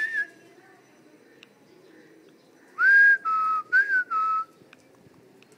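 Pet parrot whistling a short phrase of four clear notes about three seconds in: a rising note held high, a lower note, up again, then low again. The end of another whistle sounds right at the start.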